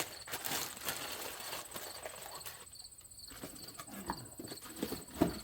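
Brake parts being handled: scattered light clicks and rustles, with one sharp knock near the end.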